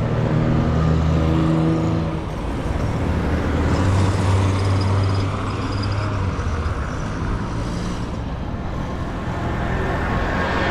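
Street traffic: motor vehicle engines running close by over steady road noise. One engine hum is prominent for the first two seconds and another from about four to six seconds in.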